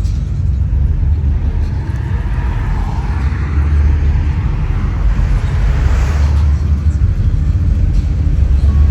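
Classic car engines running low and steady as the cars cruise slowly past, one growing louder and fading again from about three to six seconds in.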